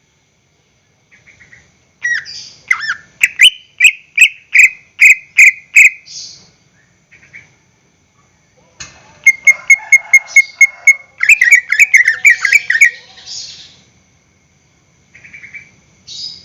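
Cucak ijo (green leafbird) singing: a series of loud, clear repeated whistled notes, about two a second, then after a short pause a rapid trill running into a tumbling, varied phrase, and a few short notes near the end.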